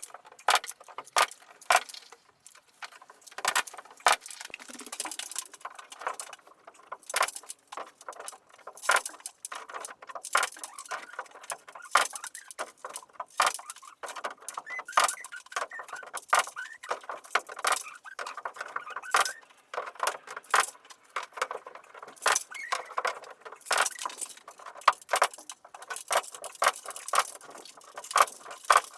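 Carpentry work on timber: irregular sharp knocks and clicks, about one or two a second, with light clatter in between.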